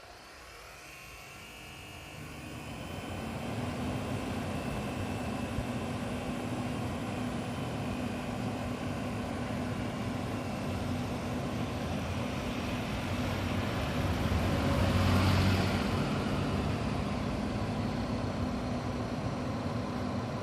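Toyota Prius PHV's air conditioning system running: a steady hum with a faint high whine over a rushing noise. It builds up over the first three seconds or so and swells briefly about fifteen seconds in.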